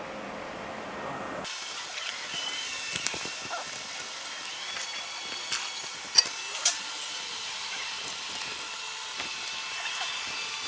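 Electric arc welding: a continuous crackling hiss full of small pops, with two louder sharp snaps about six seconds in. It begins about a second and a half in, after a faint steady hiss.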